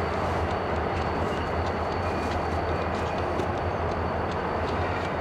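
A train running by with a steady low rumble and a few faint clicks.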